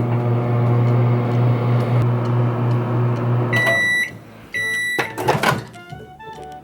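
Microwave oven running with a steady low hum that stops about three and a half seconds in; two beeps follow, marking the end of the heating cycle, then a brief clatter.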